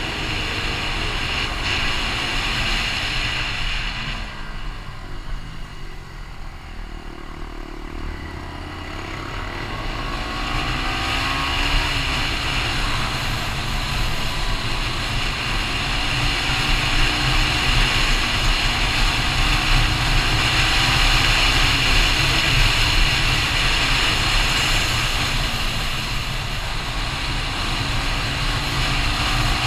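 Motorbike riding along with its engine running under heavy wind rush; the engine note rises and falls. The sound dips for a few seconds, then builds up again.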